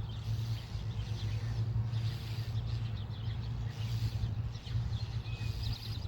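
Birds, starlings among them, giving harsh, repeated alarm calls, the mobbing of a predator raiding a starling nest. A steady low hum runs underneath.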